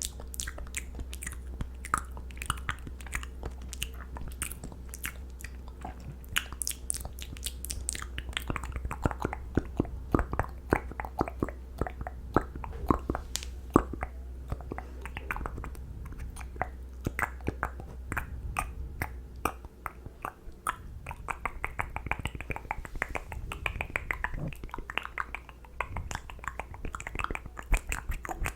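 ASMR mouth sounds close to the microphone: a dense run of wet lip and tongue clicks and smacks, with a low steady hum under most of it that drops out about two-thirds of the way through.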